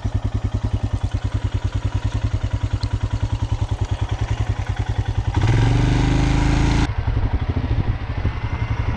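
Dual-sport motorcycle engine running at low speed with a fast, even pulsing beat. About five and a half seconds in it revs up louder for about a second and a half, then drops back.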